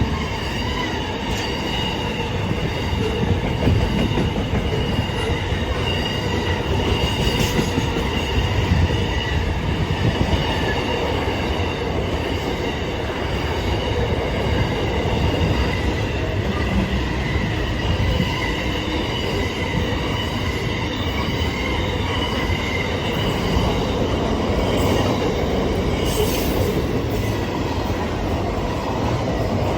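A train running along the rails with its wheels squealing steadily in several high tones over a continuous rumble. There are a couple of brief sharp clicks, one about a quarter of the way in and one near the end.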